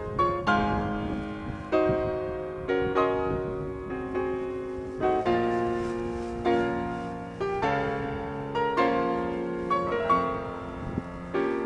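Slow piano music: single notes and chords struck about once a second, each fading away.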